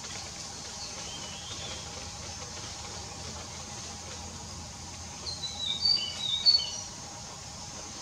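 A bird chirping: one faint chirp about a second in, then a quick burst of short, high chirps about five seconds in, over a steady outdoor background hiss.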